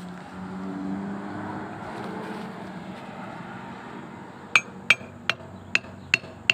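Excavator diesel engine running steadily, then from a little past halfway a hammer strikes metal about six times, two or three blows a second, each with a short ring: a bucket pin or bushing being driven into place.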